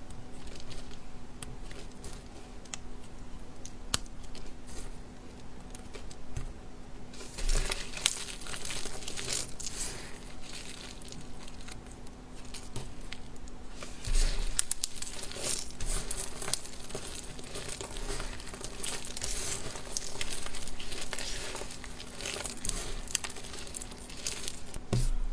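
Dry soap crunching and crackling as it is cut and crushed. It is a run of crisp crackles and clicks, sparse for the first several seconds and much denser from about seven seconds in. A faint steady hum runs underneath.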